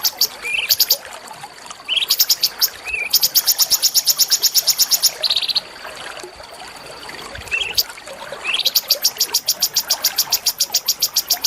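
A small songbird singing fast, rattling trills of evenly repeated high notes, about ten a second, in several bursts. Short rising notes come between the bursts, and there is a longer pause in the middle.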